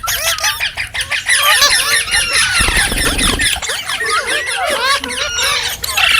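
Several green parrots calling together: a dense chatter of quick, overlapping squawks and chirps that sweep up and down in pitch.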